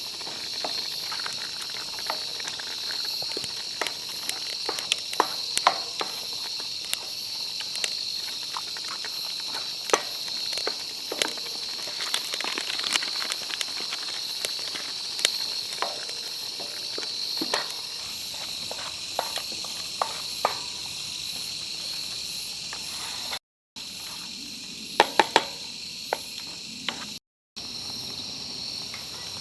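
Insects chirping steadily in a shrill, even drone, with scattered sharp clicks and small knocks of things being handled over it. The sound cuts out briefly twice near the end.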